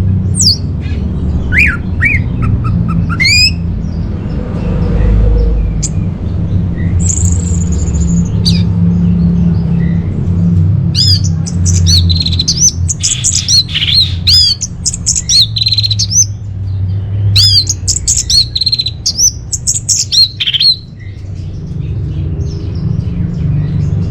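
Orange-headed thrush (anis merah) singing: varied whistled and chirping notes with quick sliding pitches, sparse at first and then a dense fast run through most of the second half. A steady low hum runs underneath.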